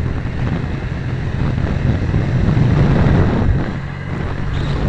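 Single-cylinder 125 cc four-stroke motorcycle engine (156FMI) running under way, with heavy wind rush on the microphone; it gets louder around three seconds in, then eases off near four seconds.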